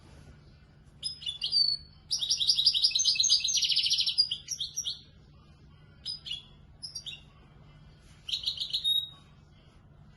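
Young European goldfinch singing in the Moroccan Marrakchi style: short high twittering phrases, then a long fast trill of nearly three seconds starting about two seconds in, followed by scattered notes and one more phrase near the end.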